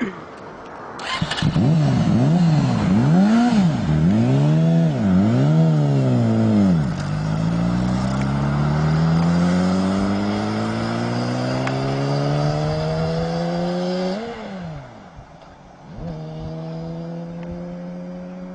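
Motorcycle engine revved in four quick blips, then pulling away in one long steady rise in pitch. It drops off suddenly about 14 seconds in, goes quieter briefly, and then climbs again.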